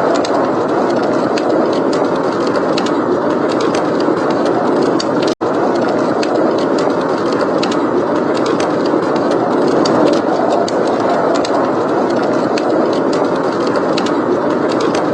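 Steady blizzard wind with fireplace crackling: many small sharp pops over the wind, with a momentary break in the sound about five seconds in.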